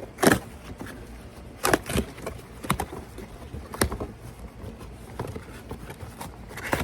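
A cardboard box being opened and the item inside handled: a run of irregular sharp taps, scrapes and knocks, the loudest just after the start and others about two and four seconds in.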